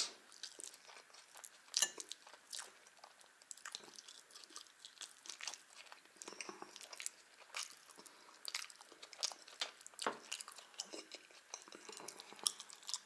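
A person chewing a mouthful of Olivier salad with fried chicken, making soft wet smacks and sharp clicks scattered irregularly throughout, the loudest a little after two seconds in and about ten seconds in.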